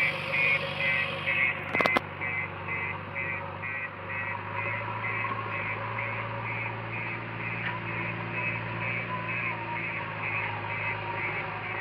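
Reversing alarm on a JCB backhoe loader, a high beep repeating about two to three times a second, over the steady drone of its diesel engine. A couple of sharp clicks come about two seconds in.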